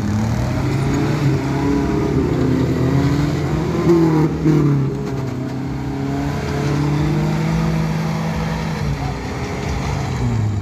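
Off-road vehicle's engine running hard under load. Its pitch climbs over the first few seconds, holds high, then drops near the end.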